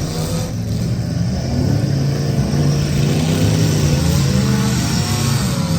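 Demolition derby cars' engines running loudly, revving up and back down a few times around the middle.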